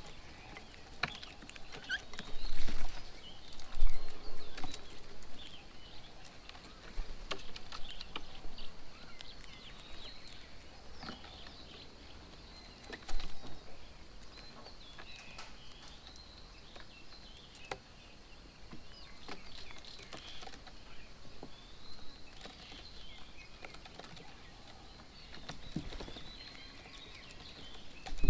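Small birds chirping and calling in short, scattered notes, with a few sharp clicks and some louder low thumps, the loudest a few seconds in.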